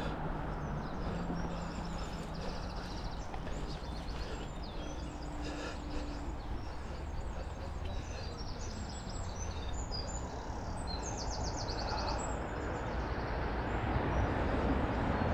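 Small songbirds chirping and trilling repeatedly over a steady low background noise, with a quick run of trills about two thirds of the way in.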